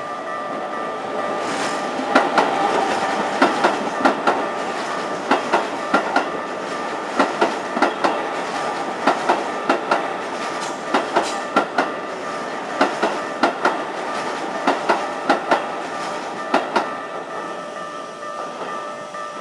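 Electric commuter train running past, its wheels clacking over rail joints in regular pairs of knocks, roughly one pair every two seconds, over the rumble of the running gear. The clacking stops near the end as the last car goes by.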